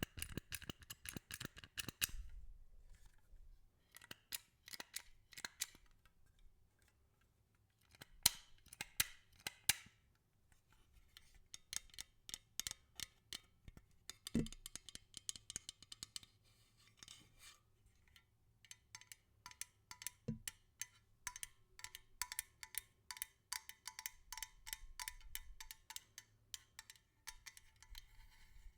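Rapid tapping and clicking: runs of quick, sharp clicks, several a second, broken by short pauses, with two soft low knocks in the middle.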